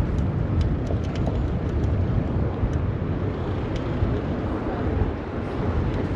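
Street noise heard from a moving bicycle in city traffic: a steady low rumble of vehicles and wind on the microphone, with a few faint ticks.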